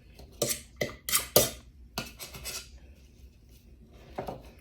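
Kitchen utensils and dishes clattering: a quick run of sharp clinks and knocks in the first two and a half seconds, then one more near the end.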